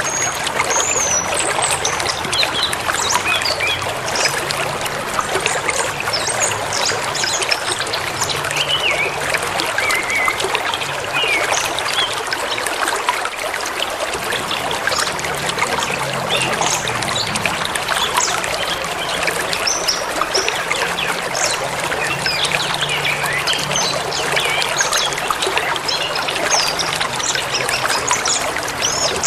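River flowing steadily through a forest, with small birds chirping and whistling in short calls throughout.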